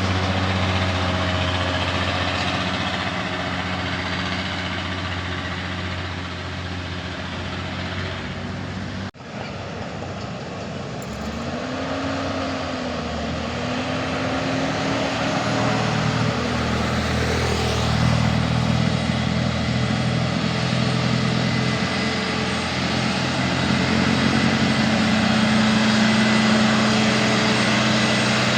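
Heavy truck engine running, with some rises and falls in pitch, under steady traffic noise. The sound drops out briefly about nine seconds in.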